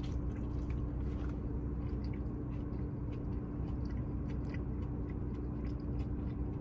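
Close-miked chewing of a fried cheese stick, soft wet mouth clicks scattered throughout, over the steady hum of an air conditioner.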